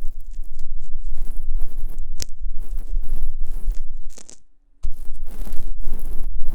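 ASMR ear-cleaning sounds: an ear pick scraping and rubbing right against the microphone, irregular and close, over a strong low rumble. There is a sharp click about two seconds in, and the sound drops to near silence briefly just after four seconds.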